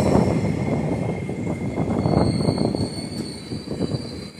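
Passenger train coaches rolling on the rails, heard from an open doorway as the train slows into a station. A thin high squeal joins about halfway through, and the running noise gets quieter toward the end.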